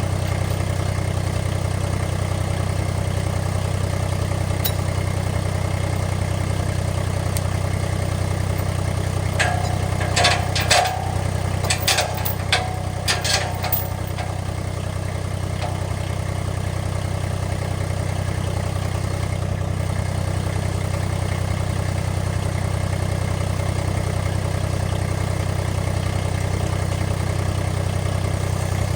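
An engine idling steadily, with a short run of clanks and knocks about ten to fourteen seconds in.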